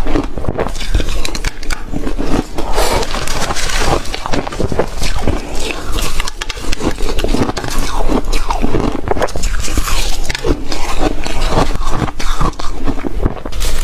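Close-up chewing of reshaved freezer ice: a dense, continuous run of crunches and crackles from bite after bite.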